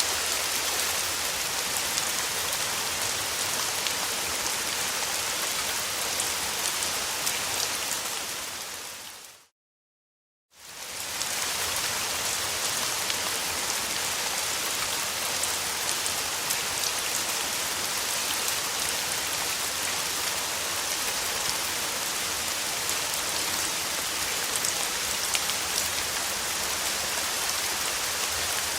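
Steady rain, a dense patter of drops on a surface. About a third of the way through it fades out to silence for about a second, then fades back in, like the seam of a looped recording.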